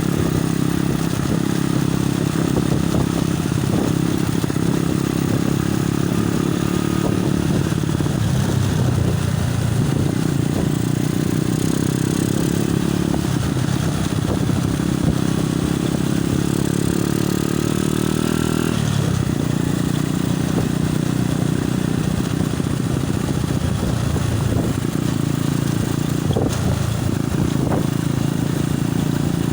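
Motorcycle engine running under way, with wind buffeting the phone's microphone. The engine's pitch dips briefly a few times, around a third and two thirds of the way through.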